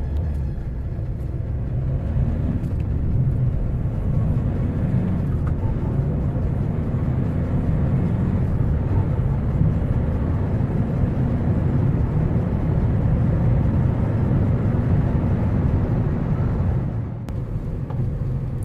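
Hyundai Creta 1.4 CRDi turbo-diesel accelerating from a standstill toward 100 km/h: a low engine and road rumble that builds over the first few seconds, holds steady, and eases off about 17 seconds in. The engine is quiet and refined for a diesel.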